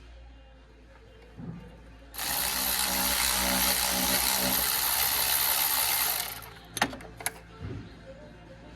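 A powered wrench runs in one steady burst of about four seconds, starting about two seconds in. Two sharp clicks follow about a second after it stops.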